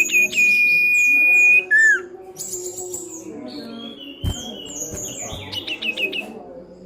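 Common iora (cipow) singing: a quick run of chirps leading into one long steady whistle of about a second and a half, a short falling note soon after, and more rapid chirping runs later on.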